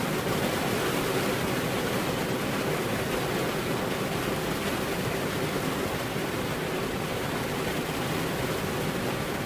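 Steady rain falling, an even, unbroken hiss with no thunder in this stretch.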